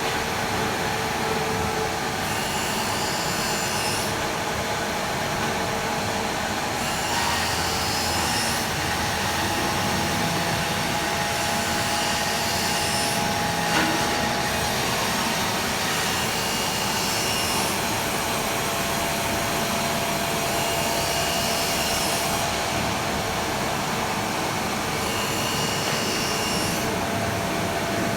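Fimaksan sawmill machinery running steadily, a dense mechanical noise with a constant whine that shifts a little every few seconds. A single sharp knock comes about halfway through.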